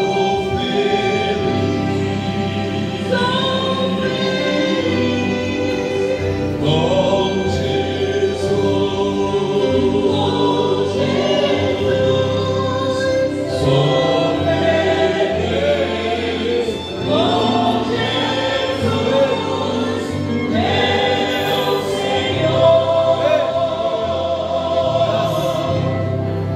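Choir singing gospel-style Christian worship music over instrumental backing.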